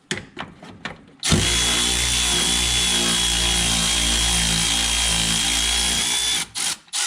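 A handheld power tool running steadily for about five seconds with a high whine, then stopping abruptly, with a few clicks before and after.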